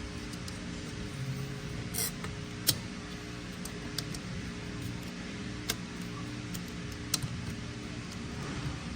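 A few sharp metallic clicks and taps from transmission clutch parts being handled and fitted into a clutch drum, scattered over a steady background hum.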